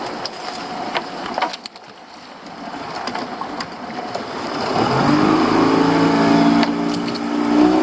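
A small boat's outboard motor speeding up about halfway through, its pitch rising and then holding steady under throttle. A few knocks come before it.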